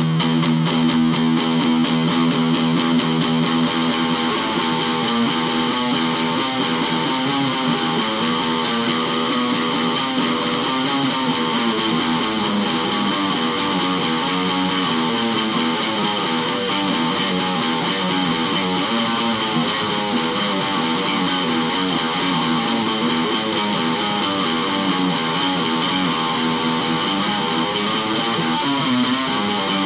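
Improvised electric guitar music with distortion, notes held and strummed at a steady loudness.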